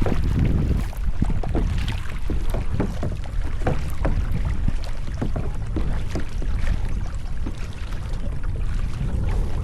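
Kayak paddle strokes with water splashing and dripping off the blades, steady and irregular, over a constant low rumble of wind on the microphone.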